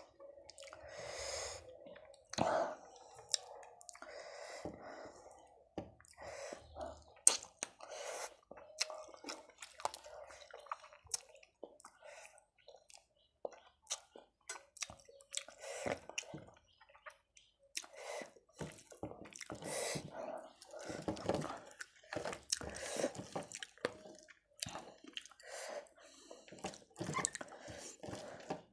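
Close-miked eating: wet chewing and lip smacking of rice with fish curry eaten by hand, along with soft squishing as fingers mix rice on the plate. Sharp little clicks come and go irregularly throughout.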